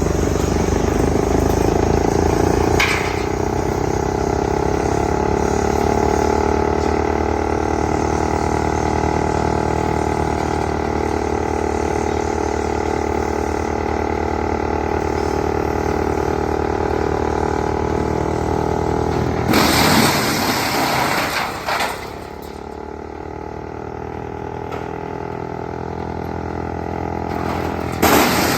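Wood chipper machine running with a steady, droning hum. About twenty seconds in there is a burst of harsh noise lasting a couple of seconds, after which the hum runs quieter; a similar burst comes right at the end.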